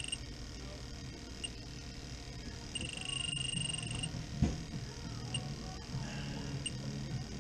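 Electronic refrigerant leak detector beeping: a steady high alarm tone cuts off just after the start, sounds again for about a second, and otherwise gives short single beeps about once a second. The steady alarm is its signal that refrigerant is being picked up at the probe on the coil, where the leak is. A single knock about halfway through, over a low hum.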